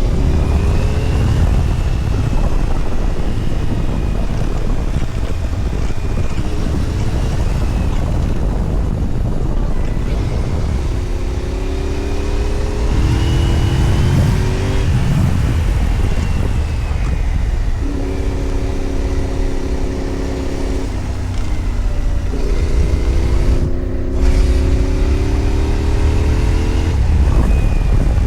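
Adventure motorcycle engine running under way, its pitch climbing several times as the bike accelerates and holding steady in between, over a constant low wind rumble.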